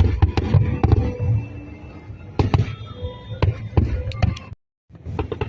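Aerial fireworks bursting in quick succession, a string of sharp bangs and crackles, with music playing underneath. The sound drops out completely for a moment about four and a half seconds in.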